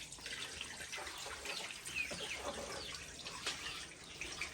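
Birds chirping: scattered short, high chirps with a few light clicks, fairly faint.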